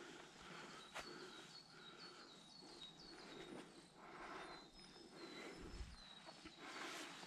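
Faint bird song: a quick run of short, falling whistled notes, repeated about three times a second.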